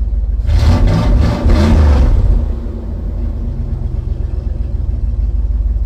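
1999 Dodge Ram 1500's 5.2-litre V8 revved in two quick blips about half a second in, then dropping back to a steady idle. The idle catches and holds instead of dying, which shows the stalling-at-idle fault cured by the new idle air control valve.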